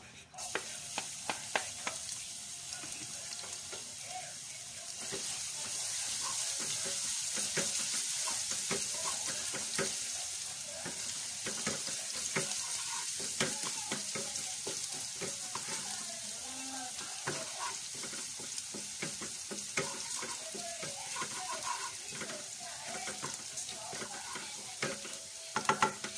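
Minced garlic sizzling in hot oil in a nonstick wok, stirred with a wooden spatula that scrapes and taps against the pan. The sizzle starts as the garlic goes into the oil and grows louder about five seconds in.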